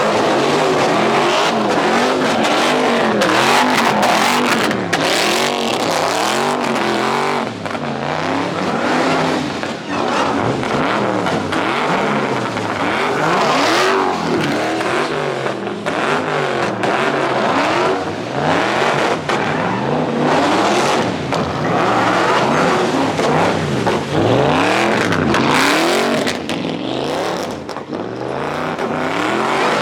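Several car engines revving hard at once, their pitch rising and falling over and over and overlapping.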